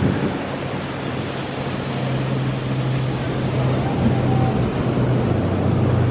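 Ocean surf and wind hiss, with a steady low engine hum coming in about a second and a half in and holding on.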